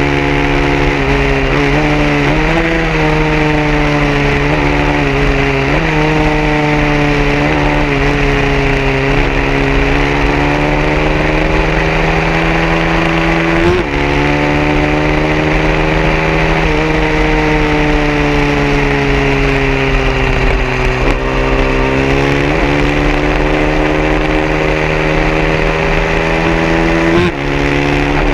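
Small 150cc racing motorcycle engines running hard. The pitch climbs steadily over several seconds and then drops sharply, about seven times, as the bikes shift up through the gears. A steady lower engine drone runs underneath.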